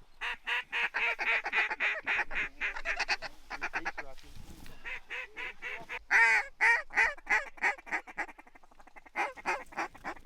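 Geese honking: a busy string of short, overlapping honks that eases briefly a little before the middle and again near the end.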